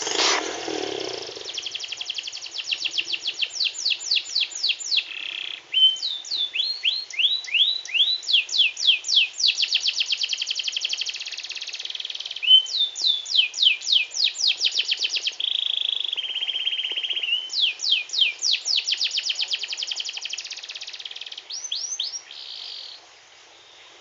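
Canary singing a long, continuous song of rapid trills: runs of quickly repeated, downward-sweeping notes, switching to a new phrase every second or two. There is a short low noise right at the start.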